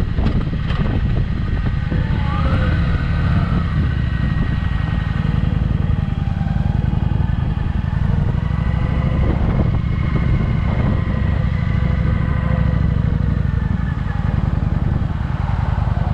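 Kawasaki Vulcan motorcycle running steadily, a heavy low rumble with a few faint tones sliding up and down in pitch.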